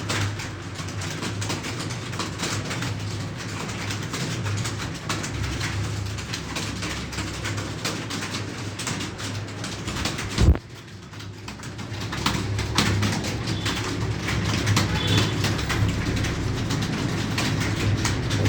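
Several computer keyboards clattering at once in fast, continuous typing, over a low steady hum. A single loud thump comes about halfway through.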